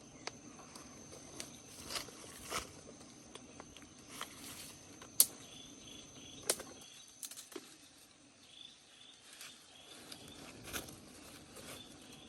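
Irregular sharp taps and knocks, the loudest about five seconds in, over a forest background. A steady high insect drone runs until about halfway, and a repeated high chirping follows.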